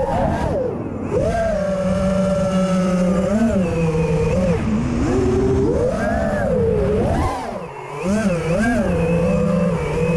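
Racing quadcopter's motors whining, the pitch swooping up and down with throttle blips and dropping sharply twice, about a second in and again near eight seconds. The quad is one the owner says was not in a good way after an ESC replacement, cause unknown.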